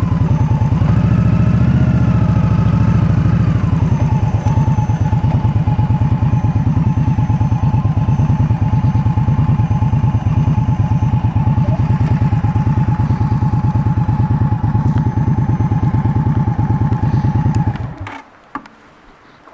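2018 Indian Scout Bobber's V-twin engine running under way, its pitch climbing and easing off in the first few seconds, then holding a steady pulsing cruise. The engine sound cuts off abruptly near the end.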